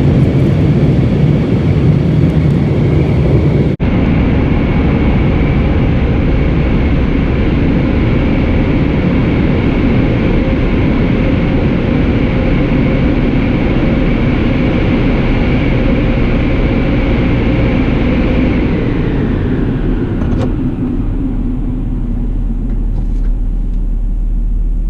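Oasis Eclipse car wash dryer blowing loud and steady with a whine in it, then spinning down about twenty seconds in, leaving a low rumble.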